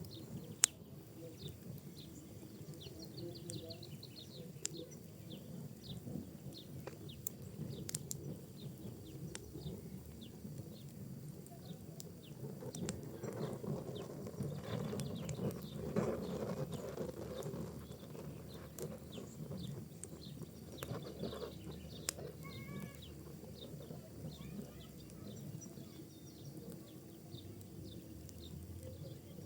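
Wood and pinecone fire crackling in a fireplace: a steady low rush of flame with scattered sharp pops and snaps, one loud pop about a second in, and the flame noise swelling for a few seconds around the middle.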